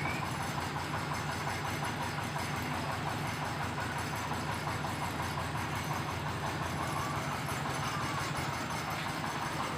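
Motorised corn sheller running steadily, with an even engine drone.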